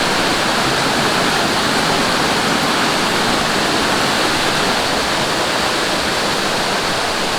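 Mountain stream rushing and splashing over rocks, a steady, loud rush of water.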